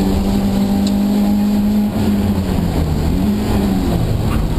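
BMW E30 318is rally car's 1.8-litre four-cylinder engine heard from inside the cabin. It is held at high revs for about two seconds, then the note drops, rises briefly about a second later and falls again, under steady road noise.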